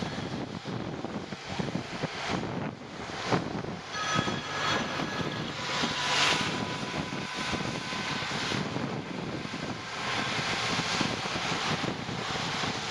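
Steady rushing wind and road noise from riding a bicycle in the rain, swelling and easing. A phone's ringtone sounds faintly for about a second, around four seconds in.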